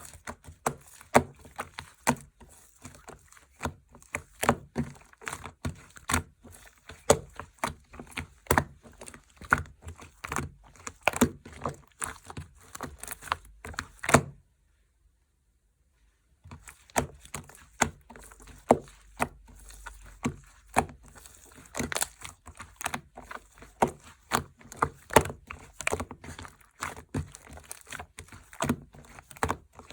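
Hands pressing and kneading mixed slime, giving a rapid, irregular run of small clicks and pops. It stops for about two seconds near the middle, then starts again.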